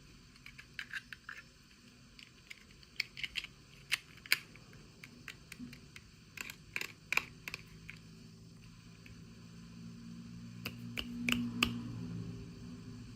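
Light clicks and taps of small plastic toy pieces and packaging being handled, coming in uneven clusters. A low rubbing sound swells near the end.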